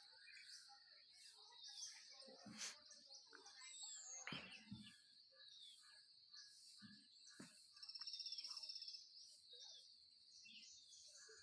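Faint background of birds chirping over a steady high-pitched hiss, with a rapid trill about eight seconds in as the loudest sound and a few soft knocks.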